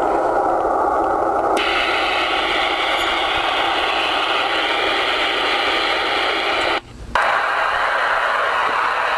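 Galaxy DX-949 CB radio receiving, with steady static hiss from its speaker. The hiss turns brighter about a second and a half in. It cuts out for a moment about seven seconds in, then comes back.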